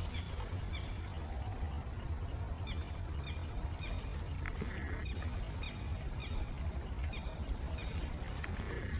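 Steady low rumble with a bird's short high chirps repeating about twice a second over it, and a thin whistle lasting about half a second near the middle.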